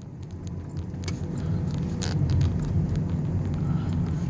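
Steady low rumble, like a car running, with a few light clicks and rattles, the sharpest about two seconds in.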